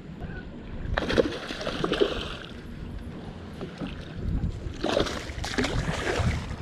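Two bursts of splashing water, one about a second in and one near five seconds, over a steady low wind rumble on the microphone.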